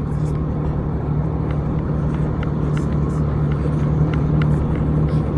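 Jet ski engine running at a steady, constant pitch, with a few faint ticks over the drone.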